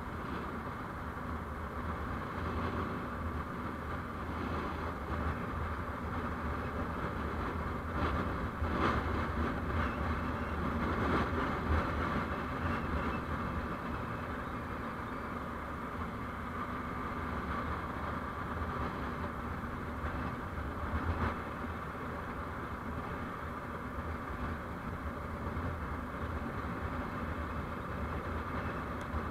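A vehicle on the move: steady road and engine noise with a low rumble, swelling louder for a few seconds about a third of the way in and briefly again about two-thirds in.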